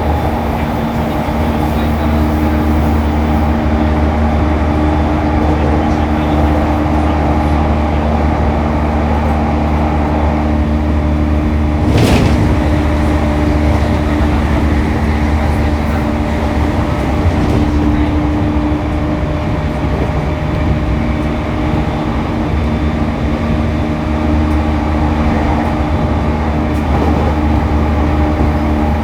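Running sound inside a JR East E231 series 1000 (renewed) commuter car at steady speed: a constant rumble of wheels on rail under a steady motor hum, with one sharp knock about twelve seconds in.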